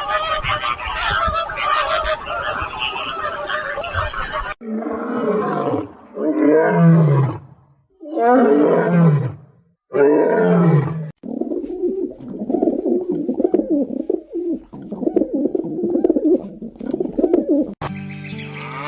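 A big cat roaring: four separate roars, each falling in pitch, in the middle of a run of cut-together animal calls. Before them comes a few seconds of dense, higher animal calling, and after them a stretch of lower, rough continuous sound.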